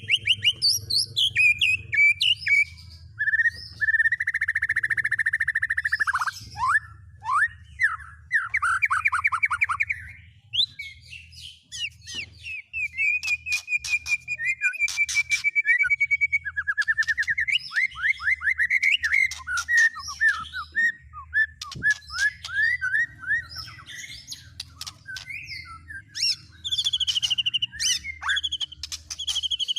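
Songbird singing in fast, varied phrases: trills, rapid runs of repeated notes and rising and falling whistles, over a steady low hum.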